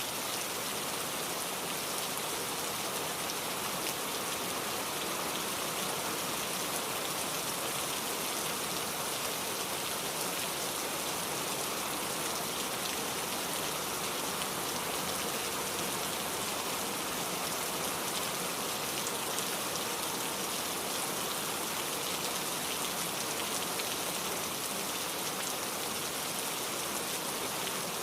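Steady rain falling, an even hiss of many fine drops hitting a surface, with no change in strength.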